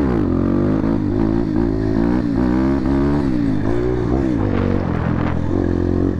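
Motorcycle engine with its dB killer taken out of the exhaust, revved up and down again and again, the pitch rising and falling several times.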